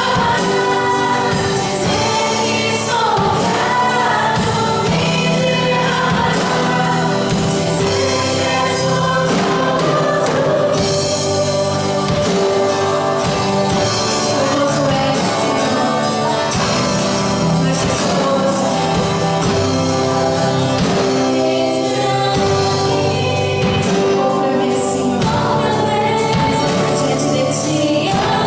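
Gospel worship song sung by a group of voices with instrumental accompaniment, played steadily and continuously.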